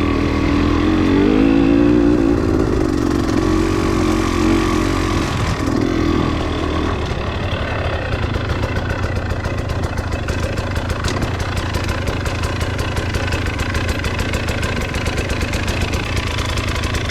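Motorcycle engine revving, its pitch rising and holding for a few seconds with a short blip of throttle about six seconds in, then settling into a steady idle.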